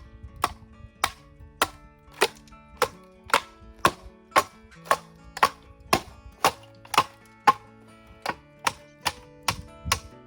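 A blade chopping into bamboo in a steady rhythm, about two sharp, ringing strokes a second, coming faster near the end, over background music.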